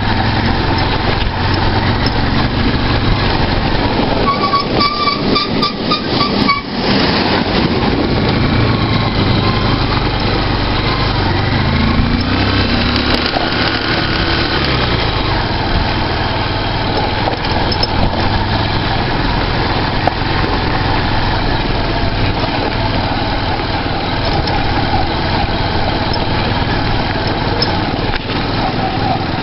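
Motorcycle engine running on the move, with steady road and wind noise. A pitched tone with overtones sounds for about two seconds starting around four seconds in, and the engine note briefly rises around twelve seconds in.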